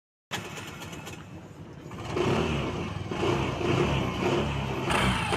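Suzuki Access 125 scooter being started on its electric self-starter, cranking with a rough, rattling noise from the clutch side. The engine catches about two seconds in and runs. The mechanic traces the noise to a faulty starter bendix whose bush does not slide freely.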